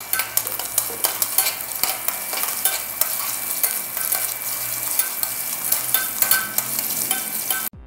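Chopped ginger and garlic sizzling in hot oil in a stainless steel pressure cooker, with a metal slotted spoon scraping and clicking against the pan as it is stirred. The sound cuts off abruptly near the end.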